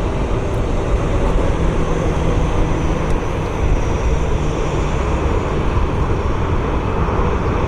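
Jet engines of a departing Southwest Airlines Boeing 737, a steady rushing noise with a faint high whine.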